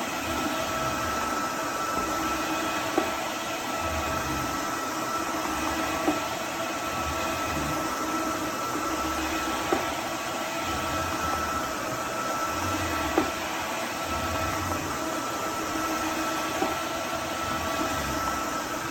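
Roborock F25 GT cordless wet-dry vacuum mop running steadily: a motor whine over a low rumble that swells and fades, with a sharp click every few seconds.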